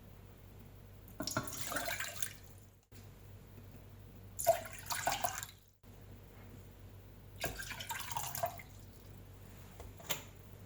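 Liquid poured into a pot in three separate pours of about a second each, with a single click near the end.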